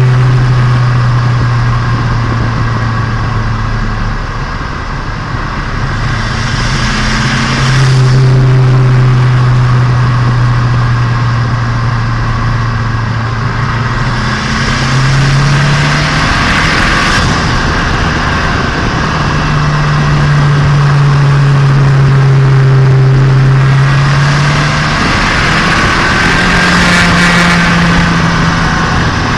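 Turbocharged Nissan Micra engine and exhaust under way during the break-in of a freshly rebuilt engine. The engine note holds steady for a few seconds at a time, then shifts in pitch several times as the car accelerates and changes speed, with surges of rushing noise in between.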